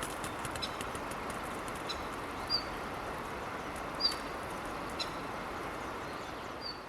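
Steady rushing outdoor noise with a short, high bird chirp three times (about two and a half seconds in, at four seconds, and near the end), plus faint scattered ticks.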